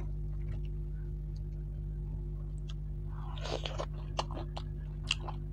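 A person eating fried rohu fish by hand: soft chewing and mouth sounds begin about three seconds in, followed by scattered small lip and tongue clicks, over a steady low hum.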